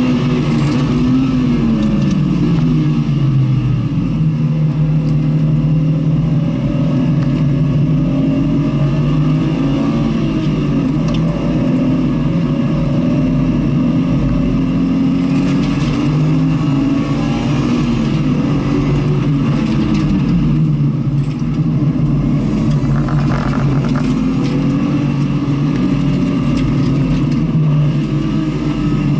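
Vehicle engine being driven hard around a short race circuit, its note rising and falling over and over as it accelerates, changes gear and slows for corners.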